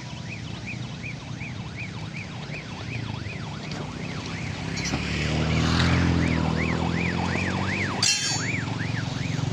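A repeating electronic warbling warning tone, about two to three chirps a second, runs throughout. About halfway in, a heavy truck engine revs up and then holds. Near the end there is a single sharp knock.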